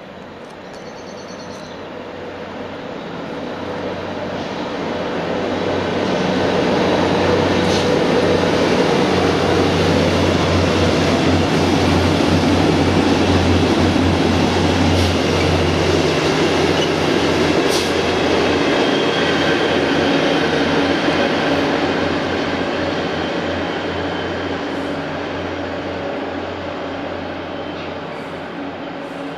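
Loram rail grinder train passing close by: its diesel engines hum low and its wheels rumble on the rails. The sound builds over the first several seconds, holds loud for about fifteen seconds as the train goes by, then fades away.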